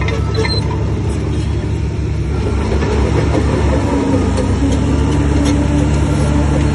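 Heavy diesel engine of earthmoving machinery running steadily, getting a little louder about two and a half seconds in, with a few faint clicks.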